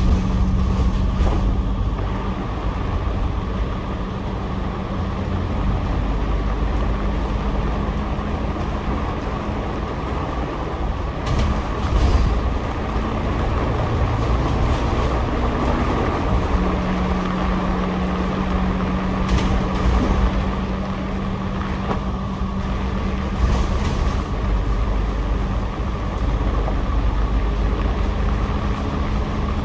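Double-decker bus running, heard from its upper deck: steady engine and road noise with a low hum that drops out for a few seconds midway, and a few brief knocks.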